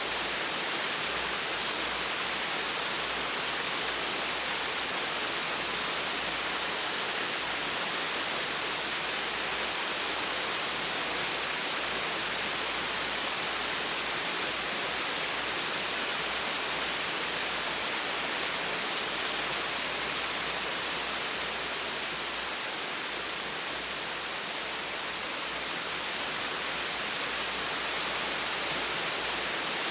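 Gentle waterfall, water falling and splashing in a steady, even rush.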